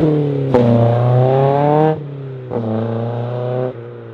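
Toyota AE86 Trueno with a swapped 3S-GE BEAMS 2.0-litre four-cylinder accelerating hard away through the gears. The revs climb in pitch and break off at each upshift, right at the start and again about two seconds in. Each pull is quieter as the car draws away, and it fades near the end.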